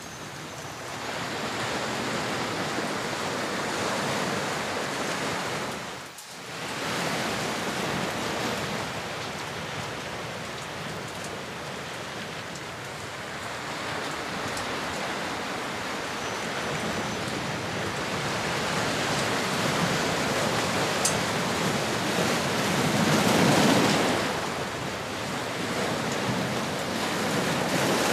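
Ocean surf: waves washing in a steady hiss that swells and eases, with a brief dip about six seconds in and the biggest swell a few seconds before the end.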